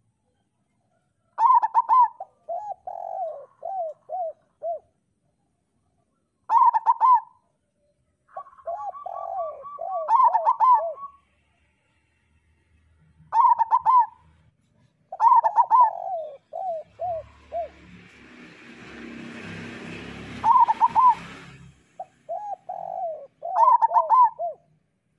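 Zebra dove (local perkutut) singing its staccato cooing song: about seven phrases with pauses between, each a few sharp high notes followed by a quick run of lower, falling coos. In the second half there are a few seconds of rustling noise under the song.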